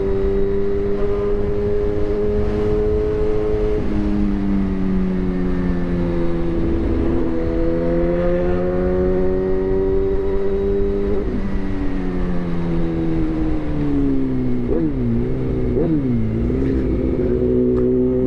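Suzuki GSX-R1000 inline-four running through an imitation SC-Project exhaust, holding fairly steady revs whose pitch rises and falls gently. Near the end the revs drop and pick up quickly twice.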